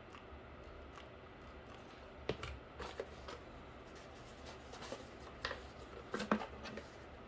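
Pieces of cardboard being handled and fitted together: a scattering of light taps, scrapes and rustles that starts about two seconds in, with the loudest knock about six seconds in.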